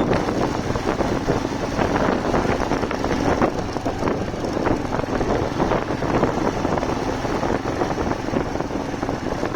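Steady rushing wind buffeting the microphone on a moving motorcycle, with the engine and road noise running underneath.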